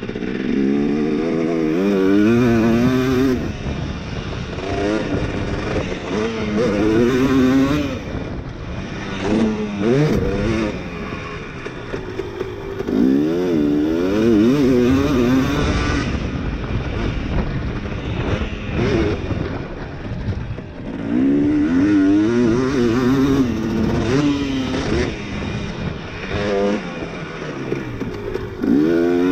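Two-stroke dirt bike engine being ridden hard, revs climbing and dropping over and over, with louder bursts of throttle every few seconds between quieter stretches.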